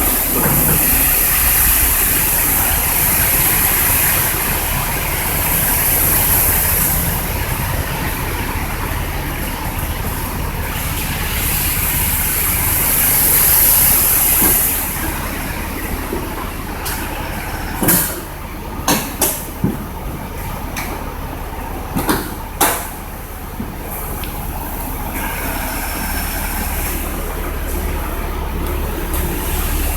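Car's electro-hydraulic convertible top being cycled: steady running noise with a low rumble and a hiss that swells and fades for about fifteen seconds, then a series of sharp clicks and clunks a little past the middle, about five in all, as the mechanism moves and latches.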